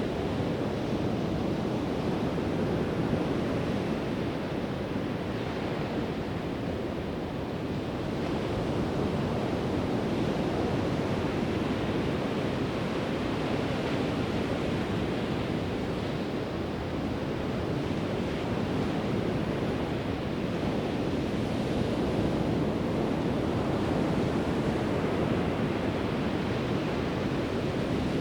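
Pacific Ocean surf washing onto a sandy beach: a continuous rush of breaking waves that swells and eases slowly, with some wind on the microphone.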